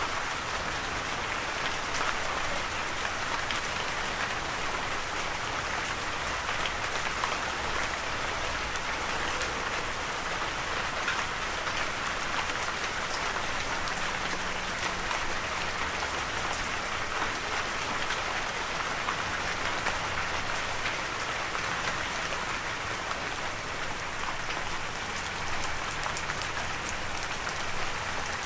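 Steady rain falling, an even hiss of many drops with fine ticks of individual drops striking a surface.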